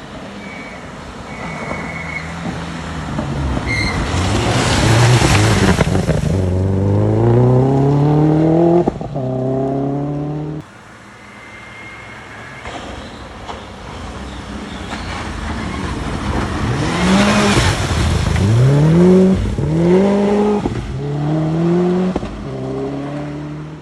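Two rally cars pass at speed one after the other, each with a rush of tyre noise as it goes by. Each car's engine then climbs through several quick upshifts as it accelerates away. The sound cuts off abruptly between the two cars.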